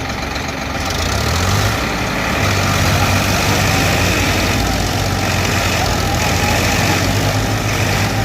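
Tractor diesel engine running, picking up revs about a second in and then holding steady.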